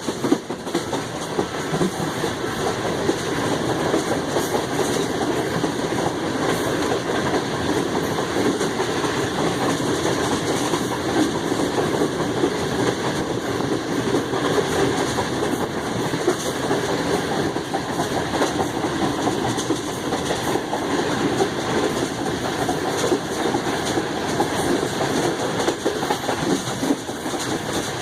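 Steady track rumble of a passenger train running at speed, heard from on board: the coaches' wheels rolling over the rails.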